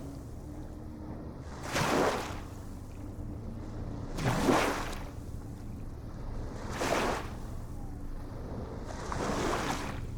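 Small waves washing in regularly, about every two and a half seconds, each a short surge of splashing water, over a steady low rumble.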